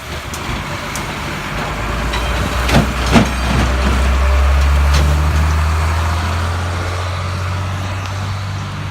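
Heavy diesel fire apparatus driving past, its engine rumble swelling to a peak about halfway through and then fading as it moves off, with two sharp knocks about three seconds in.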